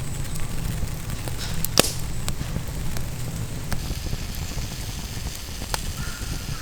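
Wood campfire crackling, with scattered sharp pops over a low rumble; the loudest pop comes about two seconds in.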